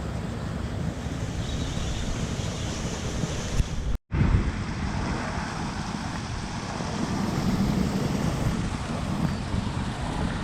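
Wind blowing across the microphone: a steady noisy rush, heaviest in the low end, cut off for an instant about four seconds in.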